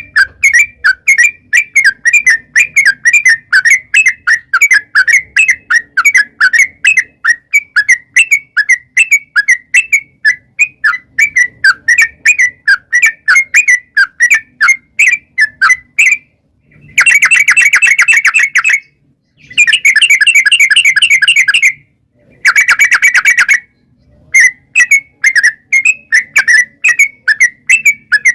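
Yellow-vented bulbul (trucukan) calling in a fast string of sharp chattering notes, about four to five a second. Partway through it breaks into three long, rapid trilled runs with short pauses between them, then goes back to the chattering notes.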